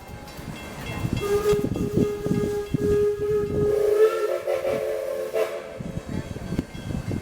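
Steam locomotive Edison's whistle blowing one long blast that steps up in pitch about two-thirds of the way through, over the repeated chuffs of its exhaust.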